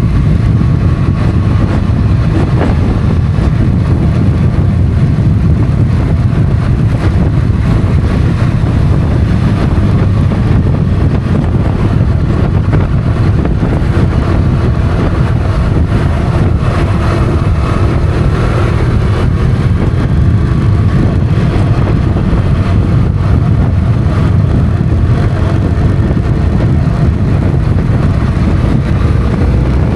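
Motorcycle running steadily at road speed, its engine rumble mixed with wind rushing over the microphone.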